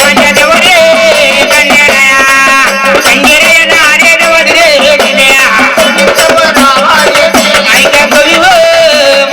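Marathi devotional folk singing: a voice singing over held instrumental notes and a steady hand-drum rhythm.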